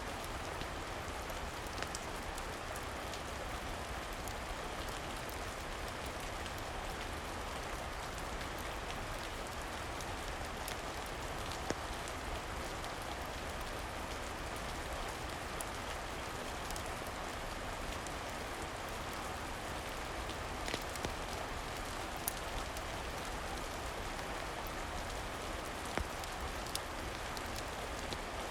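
Steady, gentle rain falling, with a few sharp clicks scattered through it.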